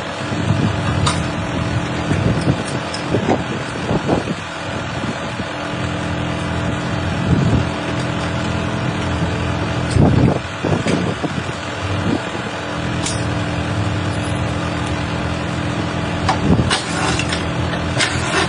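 A machine's engine running steadily, with repeated metal clanks and knocks from scrap-car dismantling work, and a few sharp clicks near the end.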